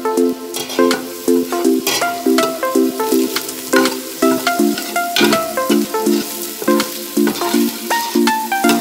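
Background music of quickly repeated short chords over onion and garlic sizzling in oil in a stainless steel pot, with the clicks and scrapes of a spoon stirring them.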